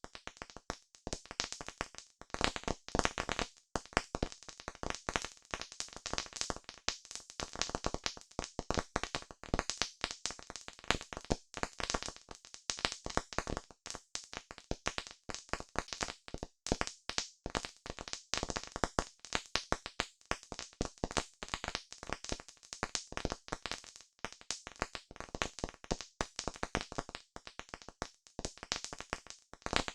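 Campfire burning with dense, irregular crackling: many sharp pops and snaps a second from burning wood.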